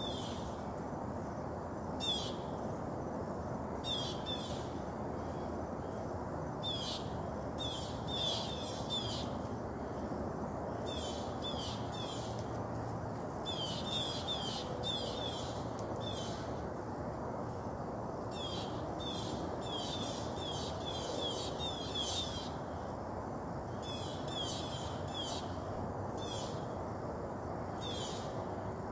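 A songbird calling in repeated runs of short, sharp, down-slurred notes, several notes to a run with gaps of a second or two between runs, over a steady low outdoor background noise.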